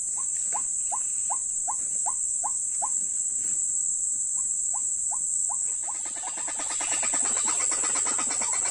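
White-breasted waterhen calling: a run of short rising 'kwak' notes, about two and a half a second, breaking off and resuming. About six seconds in, they swell into a dense, faster babble of overlapping croaks. A steady high-pitched hiss runs underneath throughout.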